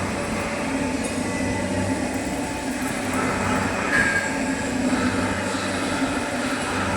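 Metal-turning lathe running steadily with a constant low hum, and a brief high squeal about four seconds in.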